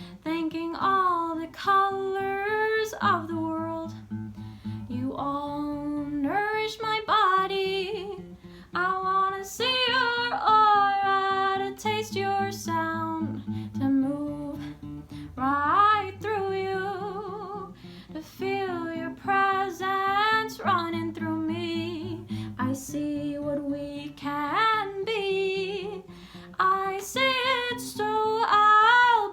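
A woman singing a melody in held phrases with vibrato, over a strummed acoustic guitar.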